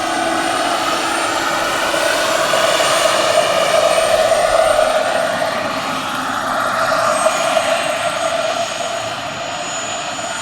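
Large radio-controlled scale model helicopter flying, its rotor and drive giving a steady whirring drone with a thin high whine, growing a little louder midway and easing slightly near the end.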